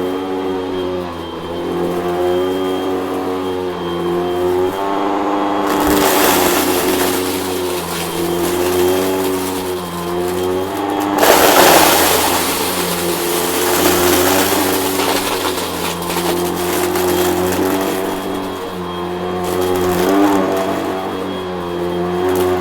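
Vacuum cleaner running, its motor pitch wavering up and down as the load changes. There are louder stretches of rushing, hissing air from about six to thirteen seconds in, and again briefly near the end.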